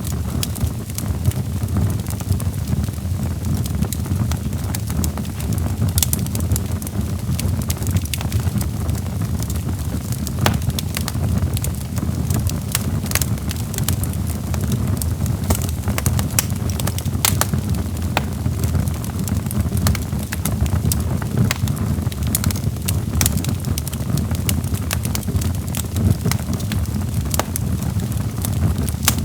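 Wood logs burning in a fireplace: a steady low rumble of flames with irregular sharp crackles and pops.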